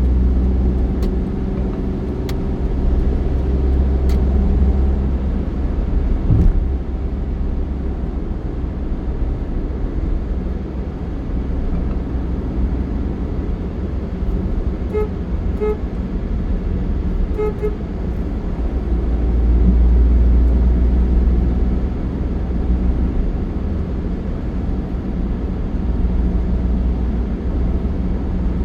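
Steady low rumble of a vehicle's engine and road noise, with a few short horn toots in two quick pairs about halfway through.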